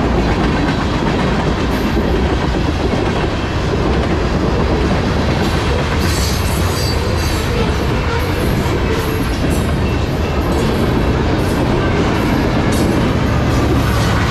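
Freight cars of a long mixed freight train rolling past close by, a steady loud rumble of wheels on rail, with clicking and clacking of wheels over rail joints from about halfway through. Near the end the diesel engine of the rear pusher locomotive comes in as a steady low drone.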